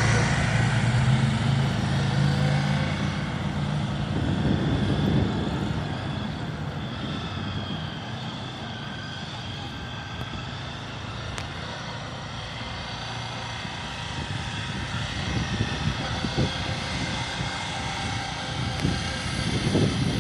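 Motorcycle engine running, fading over the first few seconds and growing louder again toward the end.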